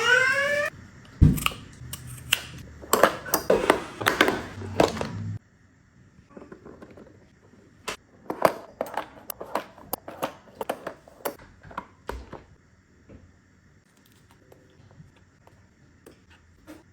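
Irregular sharp clicks and taps in two runs, with an abrupt break about five seconds in; the second run is fainter and dies away after about twelve seconds. A child's voice rises briefly at the very start.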